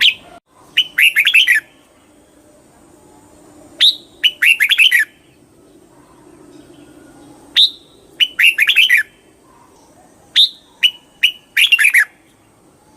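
Red-whiskered bulbul singing: short, lively phrases of quick chirping, whistled notes, repeated about every three to four seconds, four phrases in all.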